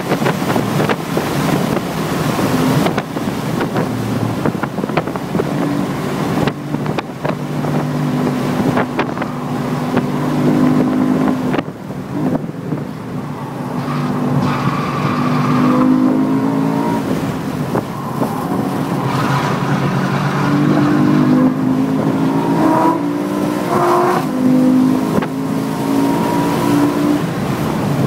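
A car's engine driven hard at speed, its pitch climbing and dropping several times as it accelerates and shifts gears, over steady wind and road noise.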